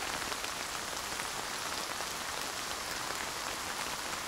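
Steady rain falling, with individual drops ticking here and there over an even hiss.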